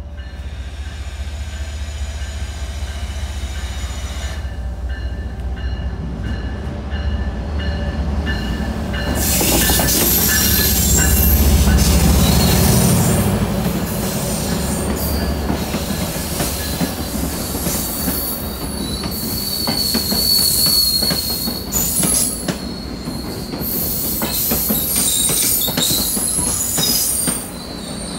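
Diesel passenger train pulling into the platform: the locomotive's engine rumbles as it approaches and is loudest as it passes close, about ten to thirteen seconds in. Then the passenger coaches roll by with wheel clatter and a high, on-and-off wheel squeal.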